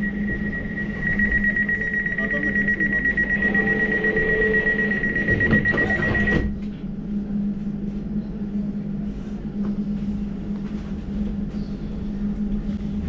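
Elizabeth line Class 345 train's door-closing warning: a high, rapid beeping that stops abruptly with the knock of the doors shutting about six and a half seconds in. A steady low hum from the train runs underneath throughout.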